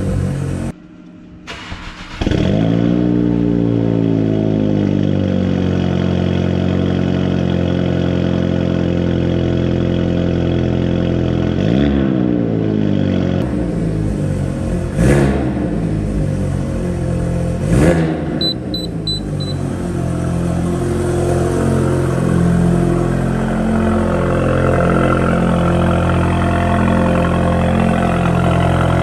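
VW Golf GTI TCR's 2.0-litre turbo four-cylinder with a Milltek 3-inch catless downpipe and no OPF, cold-starting: it fires about two seconds in with a loud flare of revs that falls away to a steady high cold idle. A few short throttle blips come in the middle.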